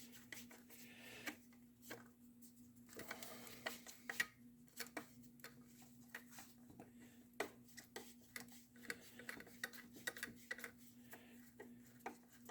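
Faint, scattered small clicks and taps of metal parts being handled as an oxalic acid vaporizer is taken apart on a workbench, over a steady hum.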